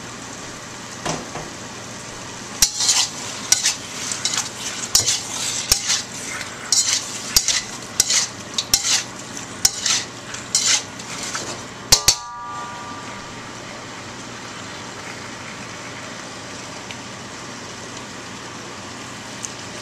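Stir-fry in a wok: a utensil scraping and knocking against the wok over a steady sizzle as shrimp, scallops and vegetables are tossed in the sauce. The stirring stops about twelve seconds in with two sharp metallic knocks and a brief ring, leaving only the sizzle.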